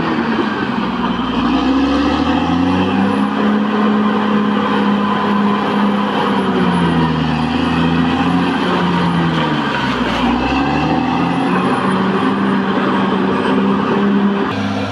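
Caterpillar D6R XL bulldozer's diesel engine running loud and steady. Its pitch drops about a second in and again around ten seconds, each time climbing back up, with a faint high whine above it.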